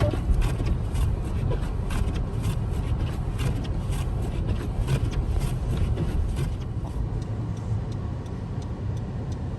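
Low, steady rumble of a car moving along a snowy street, with many irregular sharp clicks and crackles over it.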